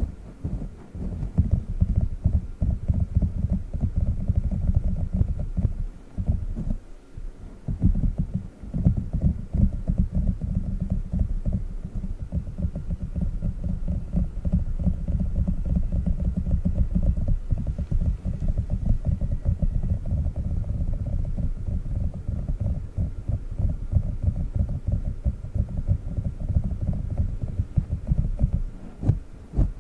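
Small sticky octopus toy pressed and pulled close to the microphone, giving a fast, dense run of low sticky pops and squishes. There is a short lull about six seconds in.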